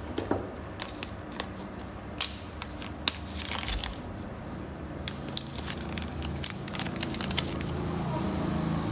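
Handling of Zippo lighters: scattered small clicks and taps with a few brief rustles.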